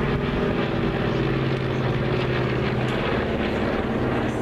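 Propeller airplane engine running steadily overhead, a drone that holds an even pitch.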